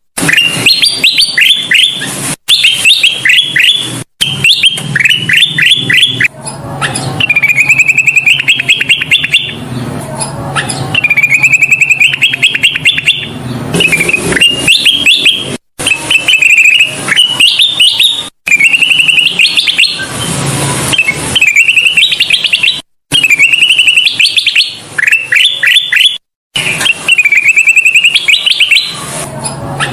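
Kutilang emas, a bulbul, singing energetically and without let-up: loud repeated phrases of quick, bright, rising notes, one phrase every second or two. The song breaks off abruptly for an instant several times, as at the joins of an edited or looped recording.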